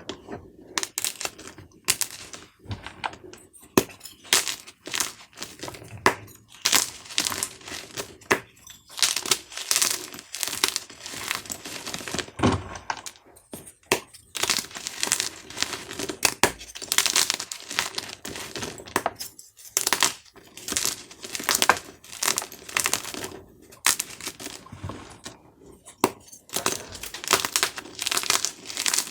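Dyed gym chalk cubes being crushed, giving a dense run of crisp, irregular crunches and crackles as the chalk crumbles, with a few sharper snaps.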